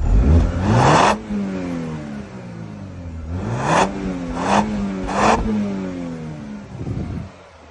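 Audi A5's tuned 2.0 TFSI turbocharged four-cylinder engine revving up a few times, with a short rush of noise at the top of each climb.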